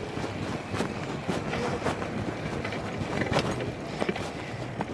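Bicycle being ridden, with steady rolling noise and scattered rattling clicks and knocks.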